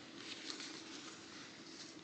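Faint rustling and light handling sounds as a blood pressure cuff is positioned on the upper arm, over a faint steady hum.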